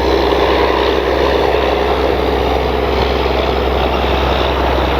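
Electric motor and propeller of an E-flite Piper Cherokee 1.3 m RC model airplane running steadily in flight.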